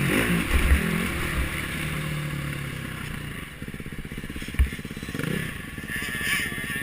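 KTM 350 XC-F single-cylinder four-stroke engine running at low revs and slowing, then settling to a steady idle about three and a half seconds in. A few dull thumps come in the first half.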